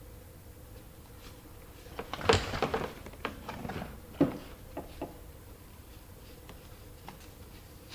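A run of clicks and knocks as the hatch's plastic trim and light pieces are worked loose and handled, loudest about two seconds in and again about four seconds in, then fading to scattered light ticks.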